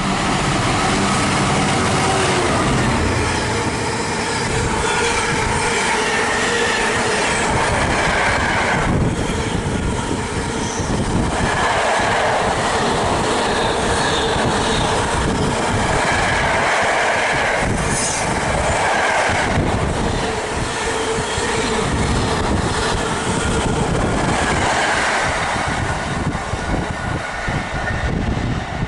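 Freight train running through the station at high speed, a long, continuous loud rush of wagons with the rapid clatter of wheels over the rails and some metallic ringing from the wheels, easing a little near the end.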